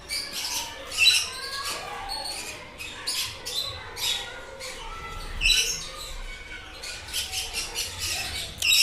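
Many birds calling together, a dense chatter of short, sharp squawks and chirps that overlap without a break.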